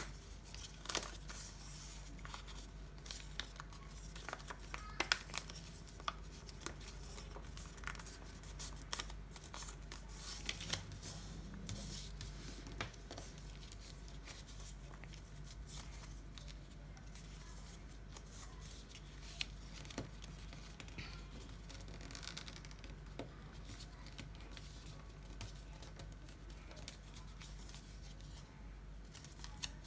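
Sheet of paper being handled, folded and creased by hand: faint crinkling and crisp crackles, busiest in the first dozen seconds and sparser after, over a steady low hum.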